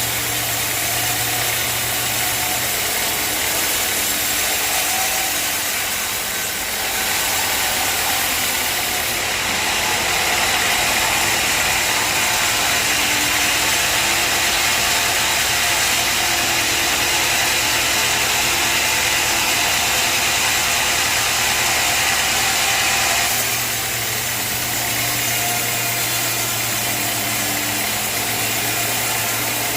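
Sawmill running steadily with a low engine hum. A rushing, hissing saw cut through a log grows louder about seven seconds in and eases off after about twenty-three seconds.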